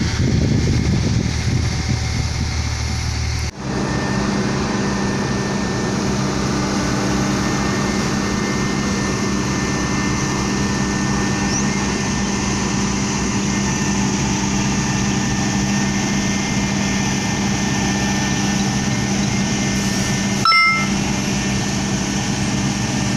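Engine of heavy road-construction machinery running steadily at a constant speed. About three and a half seconds in, the sound switches abruptly to a different engine note. A brief knock comes near the end.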